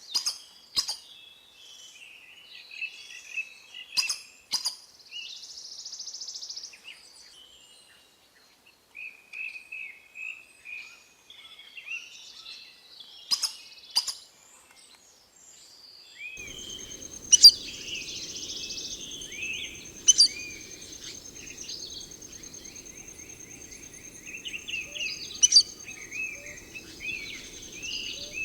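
Wild birds calling with short chirps and whistles, broken by several sharp clicks. About halfway through, a steady high-pitched buzz and a low rumble come in under the calls.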